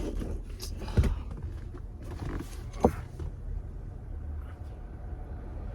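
A few sharp knocks and handling noises from hands working on car interior trim, over a low steady rumble.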